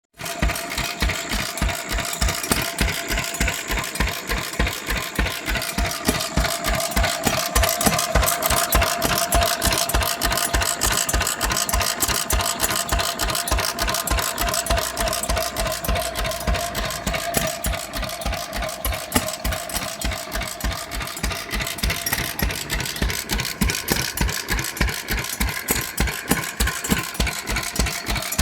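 Sundial engine running steadily, its firing beats coming evenly a few times a second with a steady whine over them.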